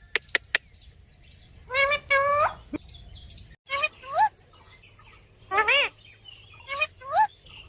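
Pet parrot vocalizing in a series of short, loud rising calls, five or six in all, with a few sharp clicks in the first half second.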